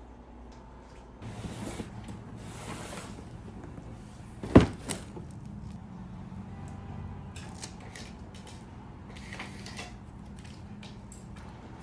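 Household handling noises: short rustles, one sharp knock about four and a half seconds in, then scattered light clicks.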